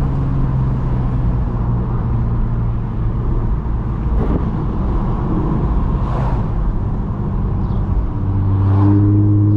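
Audi S4 B8.5's supercharged 3.0-litre V6, running through an AWE exhaust with test pipes, cruising at low revs with a steady drone. About eight seconds in it settles a little lower in pitch and grows louder and fuller, with the slight rasp it has down low around 2000 RPM.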